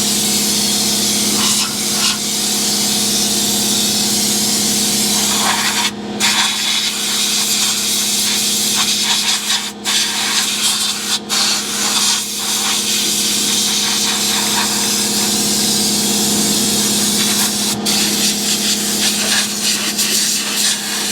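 Air-powered undercoating gun spraying oil in a steady hiss, cut off for a moment a few times as the trigger is let go and squeezed again, over a steady low hum.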